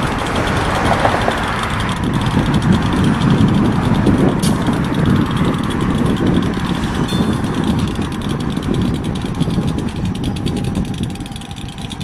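Deep, steady engine rumble of a heavy vehicle going by, with a single sharp click about four and a half seconds in; it fades over the last couple of seconds.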